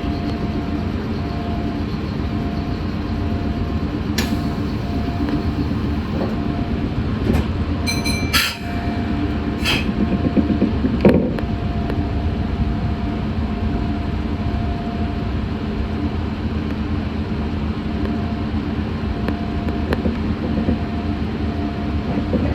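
Meitetsu 6500 series electric train running, heard from inside the car: a steady rumble of wheels and running gear with a faint on-and-off tone. A few sharp clicks or knocks come about 4 seconds in and again between 8 and 11 seconds in.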